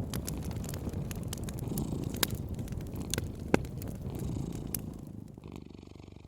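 A cat purring in a steady low rumble, with a wood fire crackling and popping over it; two pops are sharper than the rest, about two and three and a half seconds in. Everything drops quieter near the end.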